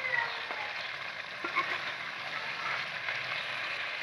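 Chicken karahi, cooked down and nearly done, sizzling steadily in a metal karahi pan, with a few light ticks of the ladle against the pan.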